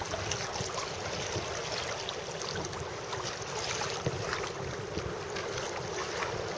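Steady wind noise on the microphone with light water lapping around a kayak on open water.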